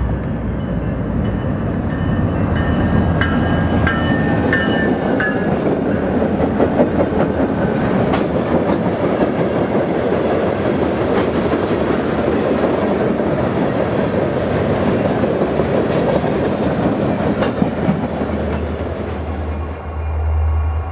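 Freight train cars rolling past at speed: a steady loud rumble of wheels on rail with scattered clacks, and a brief high squeal a few seconds in.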